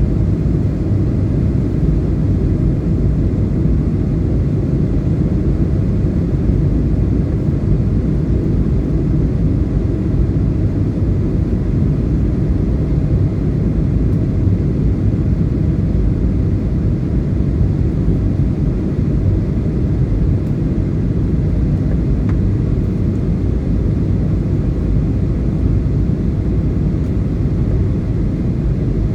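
Airliner cabin noise in flight: a steady, even low rumble of engines and airflow.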